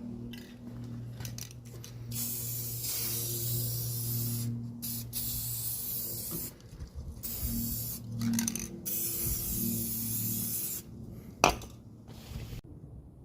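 Spray hissing in several long bursts of a few seconds each, over a steady low hum, with a single sharp click near the end.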